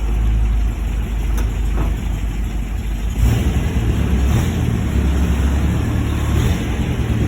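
1949 MG YT's 1250 cc four-cylinder engine running with a steady low rumble as the car is driven slowly, growing a little louder about three seconds in.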